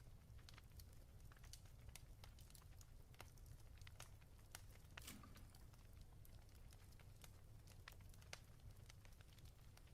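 Fireplace crackling faintly: scattered small pops over a low steady rumble, with one louder pop about five seconds in.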